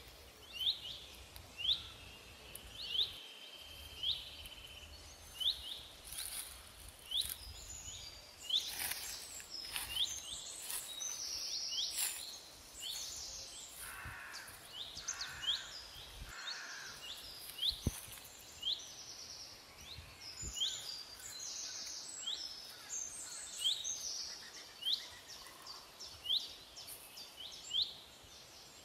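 Birds calling outdoors: one bird repeats a short, sharp rising chirp about once a second, with other birds twittering higher in the middle stretch. Faint crackles of dry leaves underfoot come and go.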